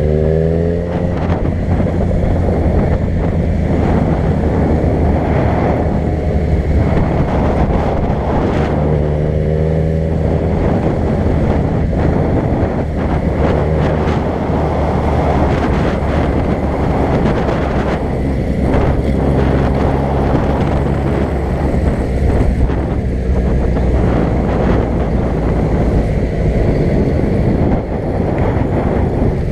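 A vehicle's engine running while driving, its pitch rising as it speeds up just at the start and again about nine seconds in, over steady road noise with wind buffeting the microphone.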